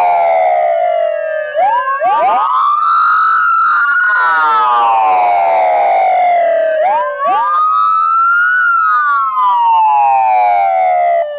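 Several emergency-vehicle sirens wailing together, slightly out of step in pitch, as a ceremonial siren salute. They fall, then go through two slow rise-and-fall cycles, each climbing for about two seconds and falling for about three, and stop abruptly at the end.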